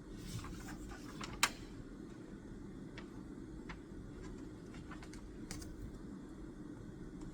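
Small clicks and short scratching sounds of desk study work over a steady low room hum, with one sharper click about a second and a half in.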